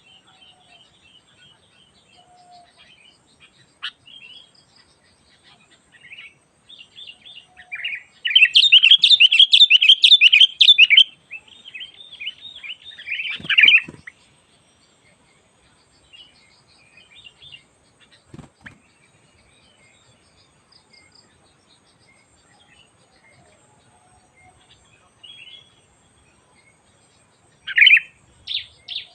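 Sooty-headed bulbuls calling: scattered chirps, then a loud, dense burst of chattering about eight seconds in that lasts about three seconds. A shorter loud burst follows around thirteen seconds, sparse calls come after, and there is a loud call again near the end.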